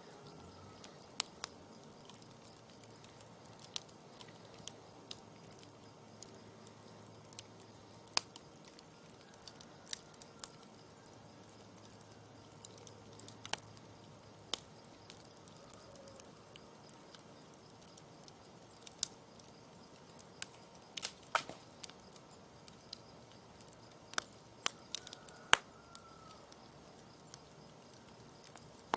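Campfire crackling: sharp, irregular pops and snaps over a faint steady hiss, with a small cluster of snaps past the middle and the loudest single snap near the end.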